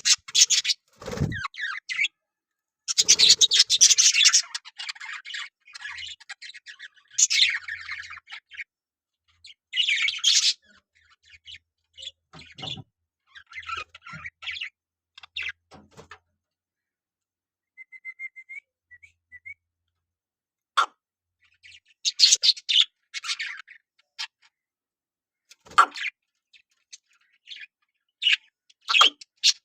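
Pet budgerigars chirping and chattering in scattered bursts of high, scratchy calls with short gaps between them. A low thump comes about a second in.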